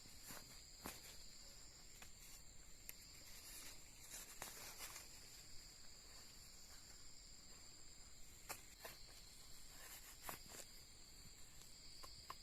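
Faint steady high-pitched drone of insects, with scattered clicks and rustles.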